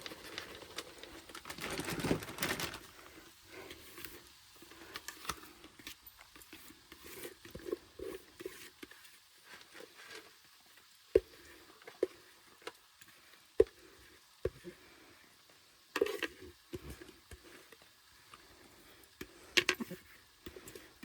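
Leftover food being packed by hand: plastic bag crinkling, with scattered light clicks and knocks from a container and utensils.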